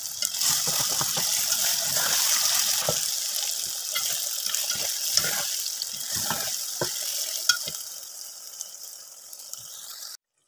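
Mutton, tomato and onion masala sizzling in a metal pot while a spoon stirs and scrapes through it, with scattered light knocks of the spoon on the pot. This is the bhunai stage, frying the masala down. The sizzle grows quieter near the end and then cuts off.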